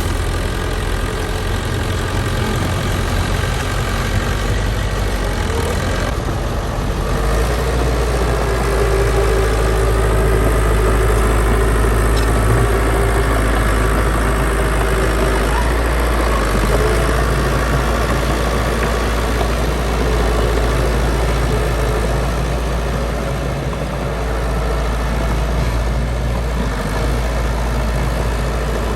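Heavy diesel engine of earthmoving machinery running steadily with a deep rumble, rising somewhat in level about a third of the way through and easing back later.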